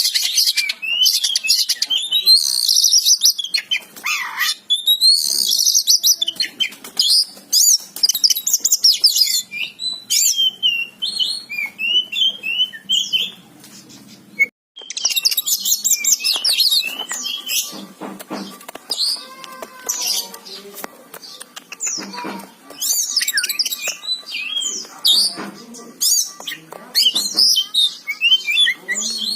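Oriental magpie-robin (kacer) singing a rapid, varied song of chirps and whistles, with a brief break about halfway through.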